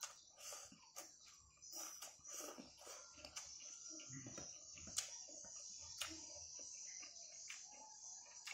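Faint eating sounds of a man chewing a handful of rice and stir-fried water spinach, with frequent sharp mouth clicks. A steady high hiss runs underneath.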